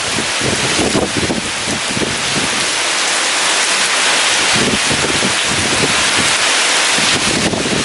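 Heavy rain pouring steadily in a storm, with strong wind gusting in uneven low surges underneath.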